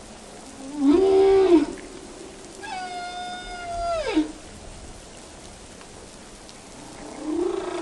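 A cat meowing twice: a short call about a second in, then a longer call that slides down in pitch at its end. A lower, different animal call starts near the end.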